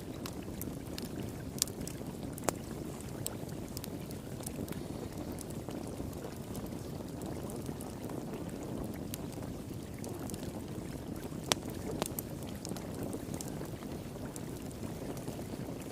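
Water flowing steadily in a low rush, with a wood fire crackling over it in scattered sharp pops, a few louder ones standing out.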